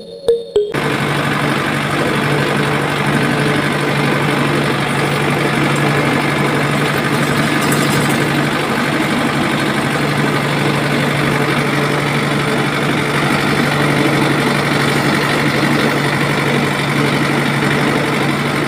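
Small motor of a homemade mini tractor cement mixer model, running steadily with a constant hum and a busy buzzing rattle. It starts abruptly just under a second in.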